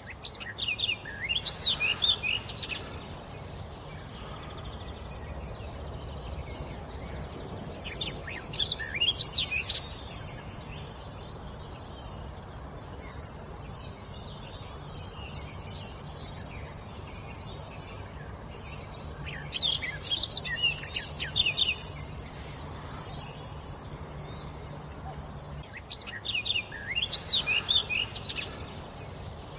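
A songbird singing four short phrases of quick, rising and falling whistled notes, spaced several seconds apart, over a steady low background hum.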